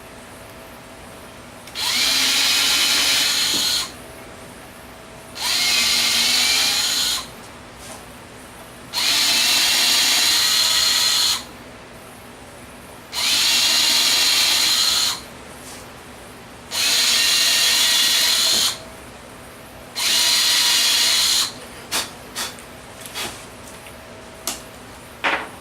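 Power drill run in six short bursts of about two seconds each, each a steady high whine that starts and stops sharply, followed by a few light clicks near the end.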